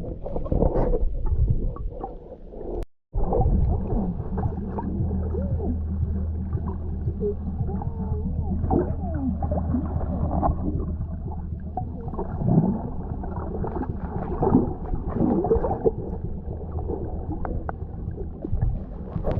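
Muffled, dull sound of a boat's motor humming steadily, with water gurgling and wavering tones over it. It drops out briefly about three seconds in.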